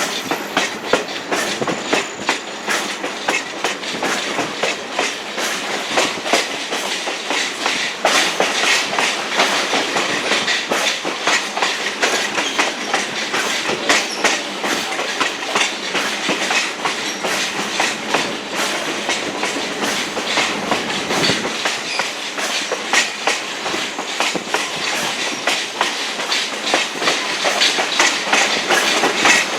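Passenger coach rolling along the track, heard from on board: wheels clicking over rail joints while the car body rattles continuously.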